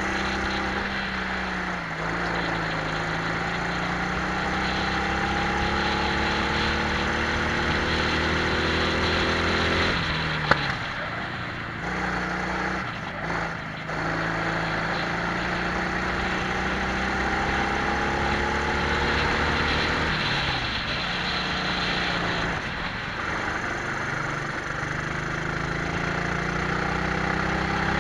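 Twin-engine Prokart's engines heard onboard during a lap: pitch climbing steadily for several seconds at a time as the kart accelerates, then falling away sharply about ten and again about twenty seconds in as the driver lifts for corners, before climbing again. A single sharp click comes just after the first drop.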